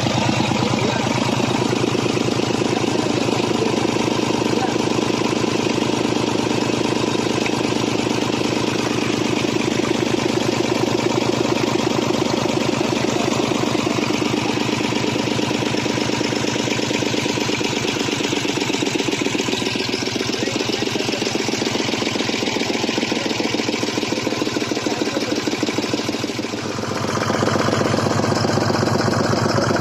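Malticar M22 two-cylinder V-type 800 cc diesel engine running steadily, with a fast regular knock of its firing strokes. Near the end the sound briefly drops and then picks up again.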